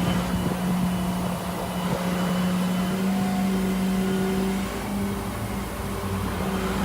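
A vehicle engine running at a steady speed: a continuous drone that changes slightly about two-thirds of the way through.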